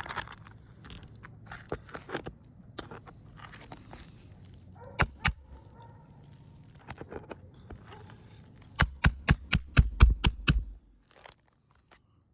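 Asphalt roofing shingle being lifted and scraped, with faint crackling, then two sharp knocks and, about nine seconds in, a quick run of about eight hammer strikes that stops suddenly.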